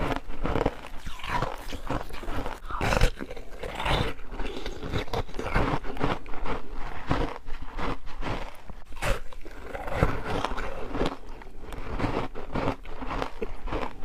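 Close-up crunching and chewing of juice-soaked freezer frost: a person bites into the icy frost soaked in passionfruit juice over and over, with many irregular crunches.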